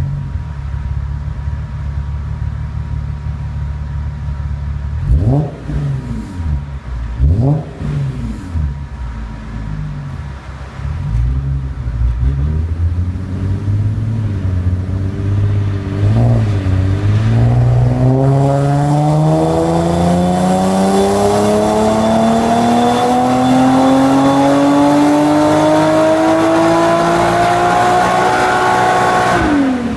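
Nissan Skyline Coupe's V6 through an aftermarket exhaust (sports catalytic converter, modified 5ZIGEN muffler) idling, blipped briefly twice, then revved in one long, steady climb in pitch for about ten seconds to a high-pitched note before falling away near the end.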